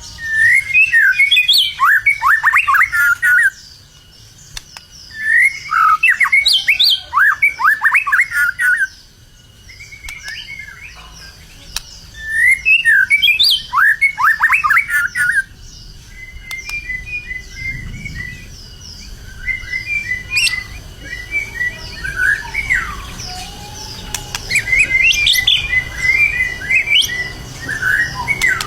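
White-rumped shama (murai batu) singing freely, in top song form as a contest bird. Loud phrases of rapid sweeping whistles and trills, each about three seconds long, come every few seconds, with softer chattering phrases in the middle stretch.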